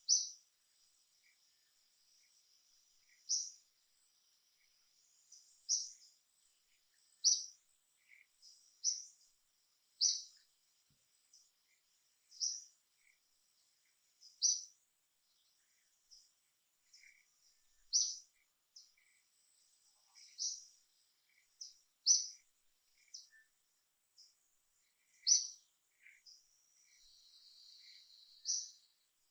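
Outdoor wildlife background: short, sharp, high-pitched chirps repeating every one to three seconds, about a dozen in all, over a faint steady high insect drone.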